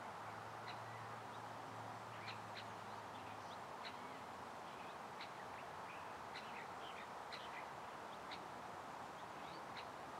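Small birds chirping, with scattered short high calls throughout, over a steady background hiss.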